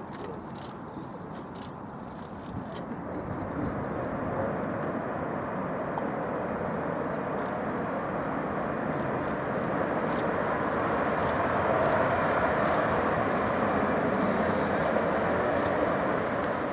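Jet airliner engines, a broad rushing noise that swells over about ten seconds and holds near its loudest toward the end, with small birds chirping over it.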